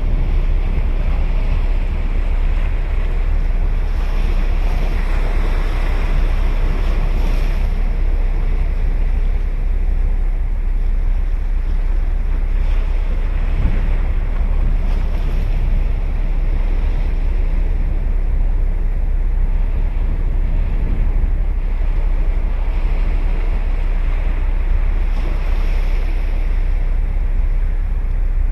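Sea surf breaking and washing ashore in a steady rush, swelling twice, about five seconds in and again near the end. Wind rumbles heavily on the microphone underneath.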